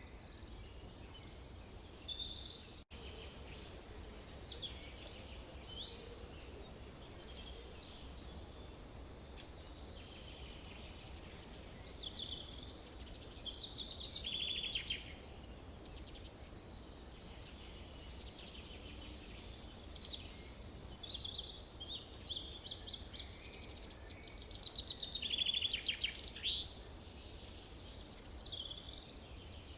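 Forest birdsong: several birds chirping and trilling over one another, busiest about halfway through and again about three quarters in, over a steady low rumble of background noise. The sound drops out for an instant about three seconds in.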